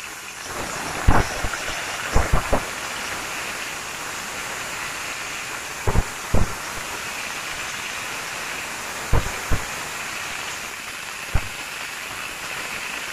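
Malabar spinach stalks frying in mustard oil in a metal wok, a steady sizzle, with sharp knocks of the spatula against the wok every few seconds, several in pairs, as the stalks are stirred.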